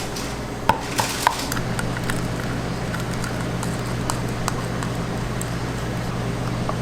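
Three quick sharp knocks about a third of a second apart, like a utensil rapped on a hard surface during kitchen prep. A steady low machine hum starts about a second and a half in, with light clicks and taps through it.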